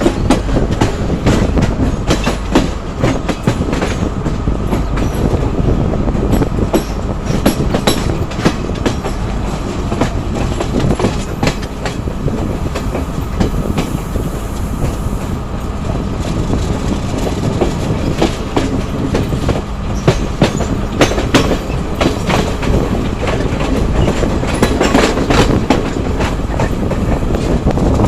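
Passenger train running along the track: a steady rumble of the carriages with irregular sharp clacks as the wheels pass over rail joints.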